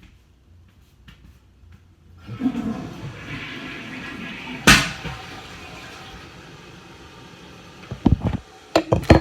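A toilet flushing: a rush of water starts suddenly about two seconds in, with one sharp click partway through, then fades away. Several short knocks near the end.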